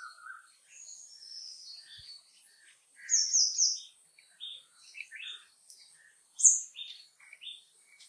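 Birds chirping and calling in short, high notes scattered throughout, the loudest a quick run of three notes about three seconds in.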